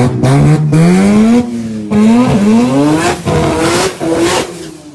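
A drag car's engine at full throttle down the strip. Its pitch climbs steeply, drops back at each gear shift (about three times), then falls away and fades near the end as the car goes off down the track.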